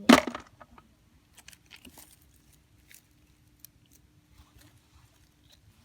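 A person eating cooked shellfish: one loud crunching bite right at the start, then faint chewing and scattered small clicks.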